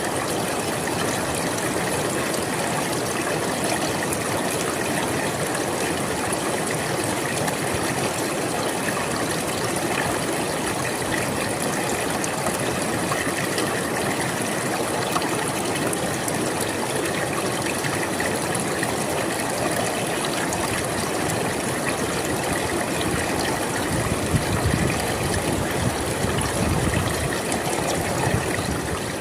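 A river flowing: steady rushing, burbling water, swelling a little deeper and louder for a few seconds near the end.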